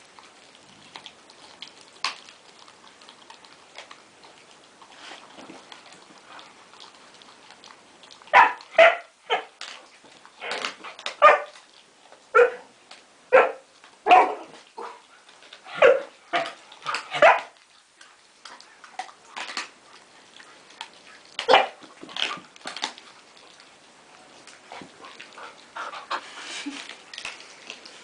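Husky barking and yipping: a string of about a dozen short, sharp calls, then two or three more a few seconds later.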